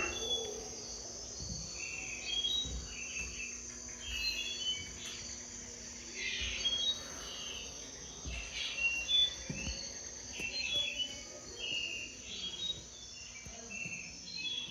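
Birds chirping in many short calls over a continuous high-pitched insect trill.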